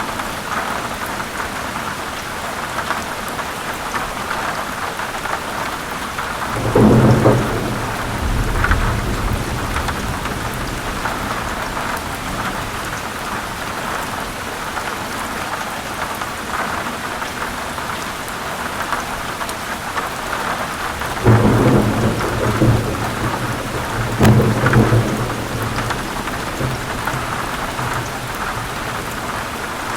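Steady heavy rain falling, with rumbles of thunder rolling in about seven seconds in and twice more in the last third.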